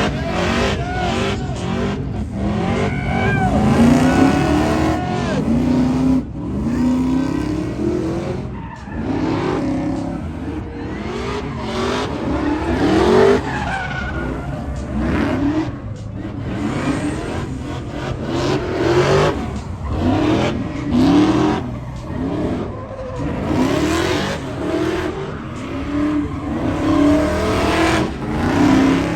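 Car engines revving hard over and over, pitch rising and falling in quick sweeps, with tyre squeal.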